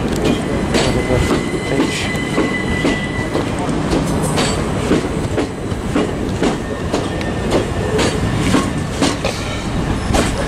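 Southern Class 377 Electrostar electric multiple unit pulling out of the platform, its wheels clacking repeatedly over rail joints under a steady rumble. A thin high wheel squeal lasts about two seconds near the start.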